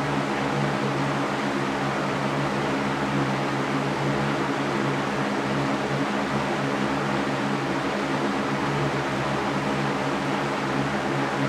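Electric fan running steadily: an even rush of air with a low, steady motor hum underneath.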